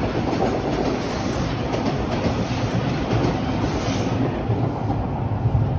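TTC Line 2 subway train passing close by, its wheels clattering over the rails. The high rattle fades about four seconds in, leaving a low rumble.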